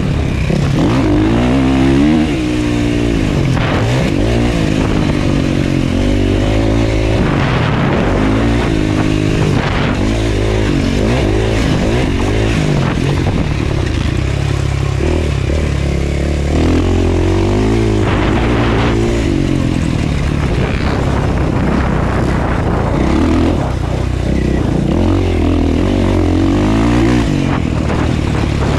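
Motocross bike engine under hard riding, its pitch repeatedly climbing as the throttle is held and dropping off as it is shut or shifted, over and over.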